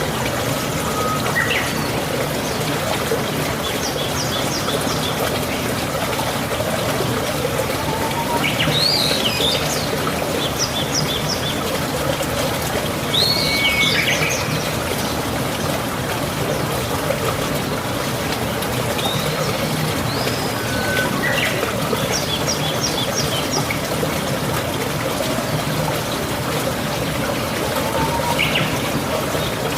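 Steady trickling, running water, with short high bird chirps and quick runs of ticking notes now and then.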